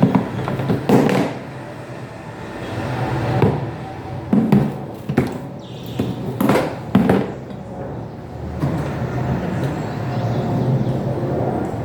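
A steady low rumble with a series of short knocks and clatters, several of them in the first eight seconds.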